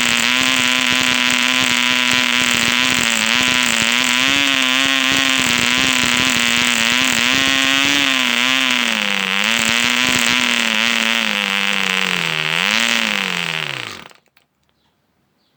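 ED Mk2 1 cc model diesel engine running at high speed with its propeller, a steady buzzing note that wavers slightly in pitch. About fourteen seconds in it rises briefly, then falls away and stops as the engine dies.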